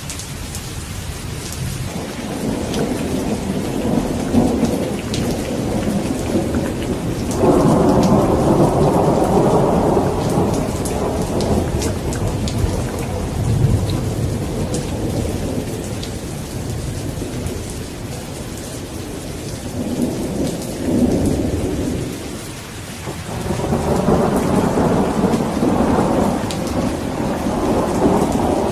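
Thunderstorm: steady heavy rain with drops pattering on a surface, and rolling thunder that rumbles up several times. The loudest roll breaks in sharply about a quarter of the way in, and another builds near the end.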